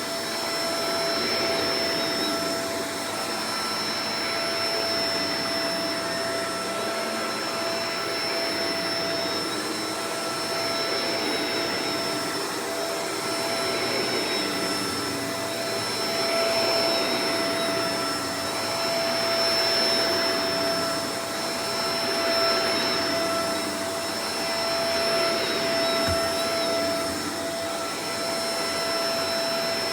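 Shark Professional Powered Lift-Away DLX (NV586) upright vacuum cleaner running steadily: a constant motor whine over the rush of air, its loudness swelling and easing every few seconds.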